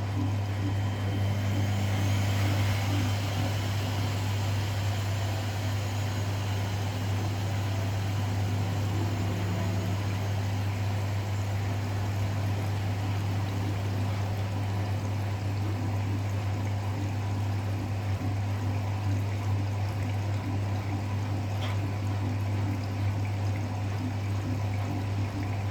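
Front-loading washing machines running a wash. There is a steady low hum, with water swishing and pouring inside the drum.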